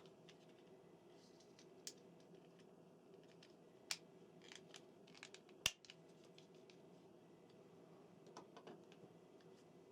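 Near silence broken by a few faint, scattered clicks and taps of small plastic N gauge model train parts being handled and fitted together, the sharpest about two-thirds of the way through.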